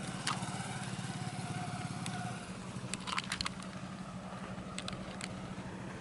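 A small engine running steadily at idle, with an even low pulsing that drops in level about two and a half seconds in. A few sharp clicks come through over it.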